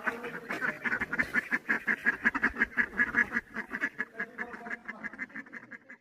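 A bird calling in a fast, even series of short quack-like notes, about five a second, fading toward the end.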